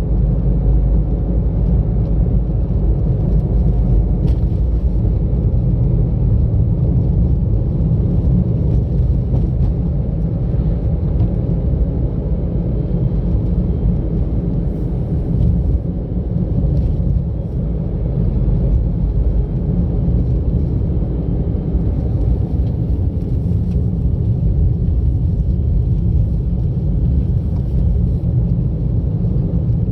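Car driving along a road, heard from inside the cabin: a steady low rumble of engine and tyre noise with no change in pace.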